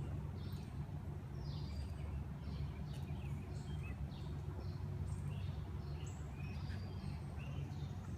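Birds chirping in short, high calls scattered throughout, some sliding down in pitch, over a steady low rumble.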